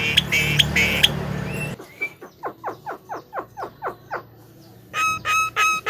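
Javan myna (jalak kebo) calling in sharp, chattering notes over low traffic noise for nearly two seconds; after a cut, a quick run of about ten falling chirps, and near the end a regular string of repeated pitched notes, about three a second.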